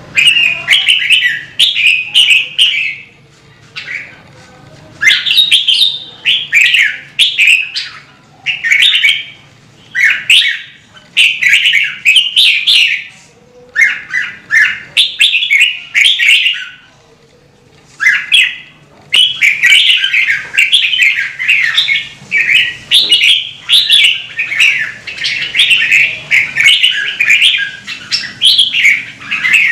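Red-whiskered bulbul singing: quick, warbling phrases repeated with short pauses, running almost without a break from about two-thirds of the way in.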